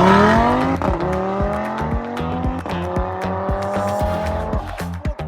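Audi RS3's five-cylinder engine accelerating hard through the gears. The note rises steadily and dips at each upshift, about a second in and again past two and a half seconds, then climbs more slowly and falls away near the end.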